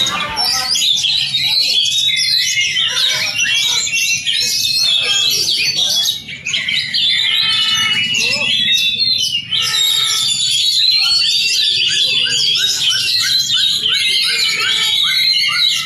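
Oriental magpie-robin (kacer) singing a fast, varied song of whistles and chatter, ending in a quick run of repeated short notes. The owner says the bird has only just finished moulting and is still weak.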